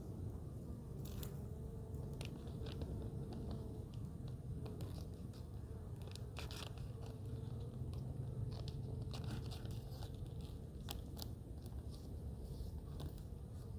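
Scattered clicks, crinkles and scrapes of hands working at an open beehive, fitting soft feed patties in place, over a steady low hum.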